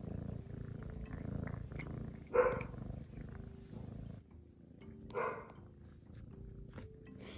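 A domestic cat purring for about the first four seconds, with two short meows, one about two and a half seconds in and one about five seconds in.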